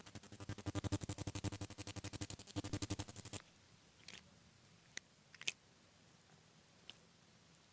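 A blade scraping along a bare back in rapid, even strokes, about ten a second, stopping abruptly about three and a half seconds in; after that come a few faint single clicks.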